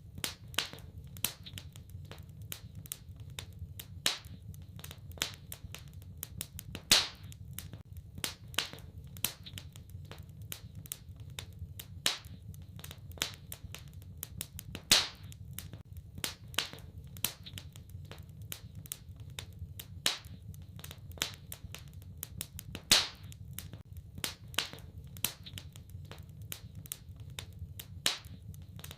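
Wood fire in a fireplace crackling: a constant scatter of small snaps and ticks, with a sharper, louder pop every few seconds, over a steady low rumble of the burning.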